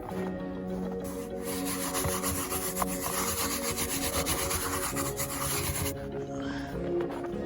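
Snow shovel scraping through packed snow in one long rasping stretch, from about a second in until it cuts off near six seconds, over background music with held notes.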